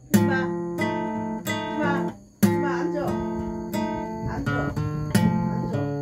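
Acoustic guitar strumming chords in a slow, steady pattern, with each strum ringing on between strokes.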